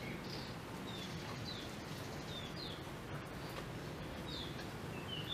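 Birds chirping: short, high notes repeating about twice a second, faint over a steady background hiss.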